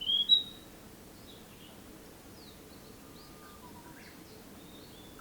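Narcissus flycatcher singing: the end of a phrase of whistled notes in the first half-second, then a pause between phrases with only faint, distant bird notes.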